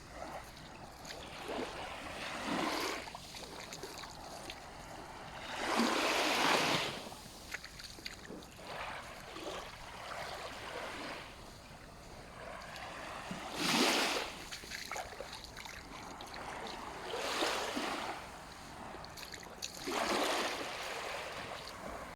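Small sea waves breaking and washing onto a sandy shore, a steady wash with louder surges every few seconds, the strongest about six and fourteen seconds in.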